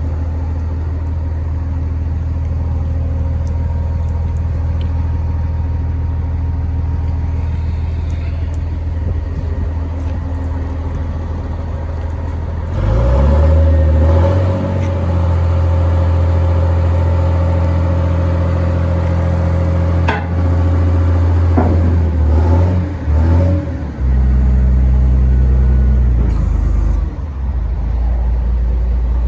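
Diesel engine of a Volvo A25C 6x6 articulated dump truck running at a steady idle. About halfway in, it revs up and holds at higher revs with a few brief dips, then settles to a deeper, heavier note near the end.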